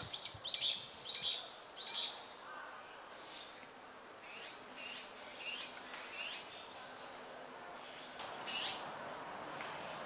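Wild birds chirping in the trees: a quick run of short, high chirps at about three a second, then a few fainter scattered chirps and one more near the end.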